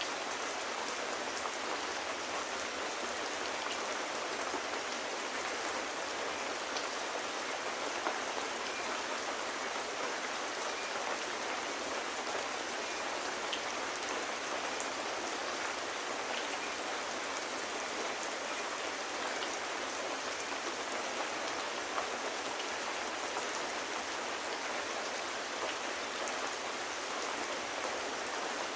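Steady rain, an even hiss with a few faint scattered ticks.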